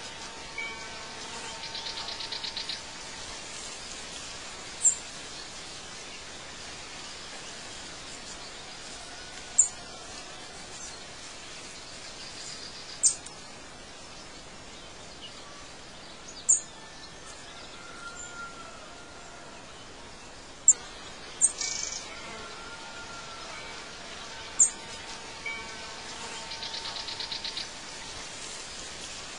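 Birds chirping over a steady background hiss: short, sharp, high chirps every few seconds, with a buzzy trill shortly after the start and again near the end.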